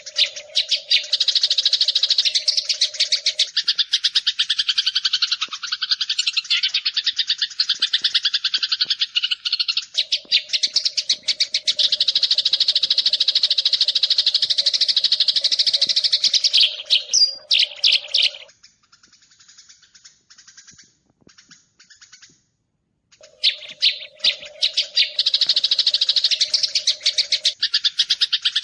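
Sparrows chirping in a dense, rapid stream, a decoy call recording used to lure birds for trapping, with a steady low tone under parts of it. The chirping breaks off about 18 seconds in and starts again about five seconds later.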